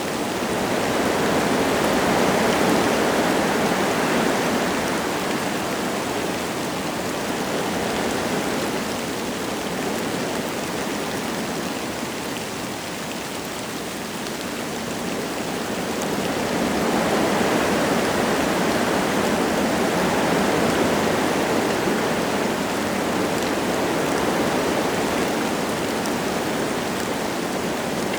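Wind gusting through forest trees with light rain falling. The rushing noise swells twice, a few seconds in and again past the middle, easing in between.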